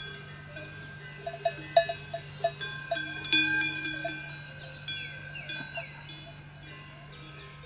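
Metal bells clanking irregularly, as on grazing livestock, with a few short bird calls. The ringing is busiest in the first half.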